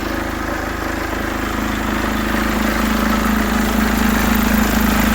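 Mercedes W204 engine idling steadily. The mechanic says the engine runs rough and suspects the belt tensioner pulley or the alternator freewheel.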